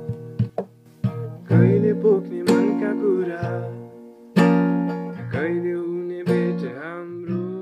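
Music: an acoustic guitar strumming chords, with a melody line bending over them.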